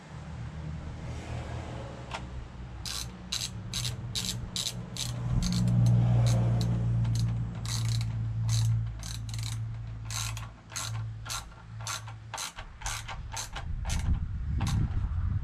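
A ratchet tool clicking in short runs as a windscreen mounting screw is driven home, over a low steady hum.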